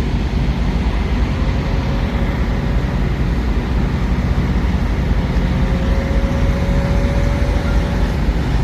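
Semi-truck running, heard as a steady low drone of engine and road noise, with a faint whine that rises slowly in pitch twice.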